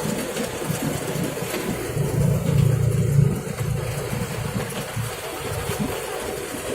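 Steady rumble of a train, with a louder low hum for about a second near the middle.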